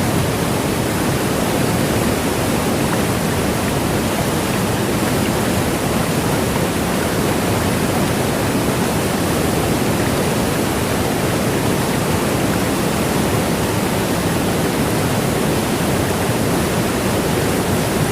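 Steady rushing noise of fast-flowing water, even and unchanging throughout.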